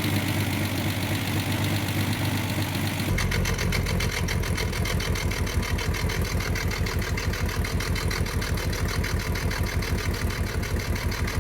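Ford Sierra V6 engine idling on old petrol after long standing. About three seconds in, its sound changes to an uneven, pulsing beat of roughly seven or eight pulses a second.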